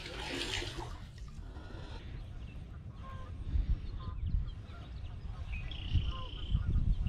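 Outdoor pond sounds: a steady low rumble with a few short bird calls, one a thin high note held for under a second near the end.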